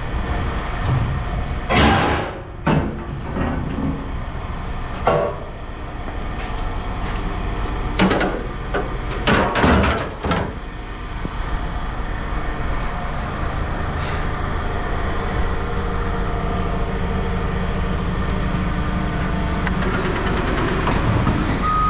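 A vehicle engine running steadily under a handful of loud knocks and clatters, the loudest about two seconds in and around ten seconds in.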